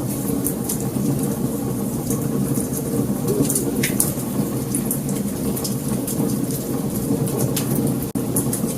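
Wood fire crackling: frequent sharp pops and snaps over a steady low rush of burning flames.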